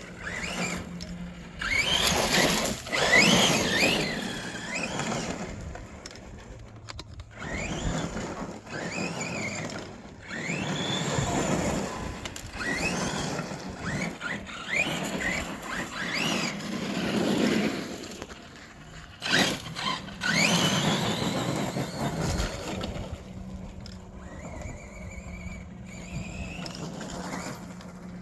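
Electric 1/8-scale RC monster truck being driven in repeated bursts. Its motor whines up and down in pitch with each burst of throttle, over a steady low hum.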